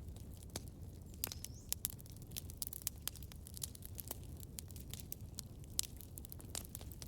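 Campfire crackling: wood burning with dense, irregular snaps and a few louder pops over a steady low rumble, and a short rising high whistle about a second and a half in.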